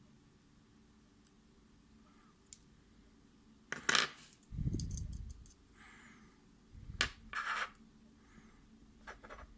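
Small metal lock parts clinking and rattling as they are handled, with a few light clicks, a clatter about four seconds in and another around seven seconds, and a dull knock just after the first clatter.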